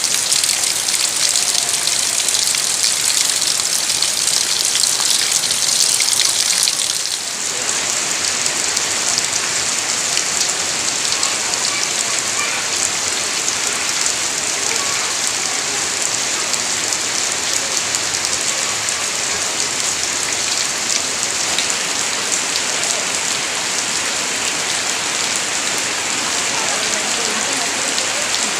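Heavy rain pouring down steadily, a dense even hiss of drops; about seven seconds in the sound shifts, a little softer and less sharp, then carries on unchanged.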